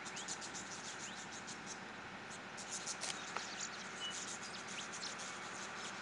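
Small birds chirping in short high calls over a steady outdoor hiss, with one louder call about three seconds in.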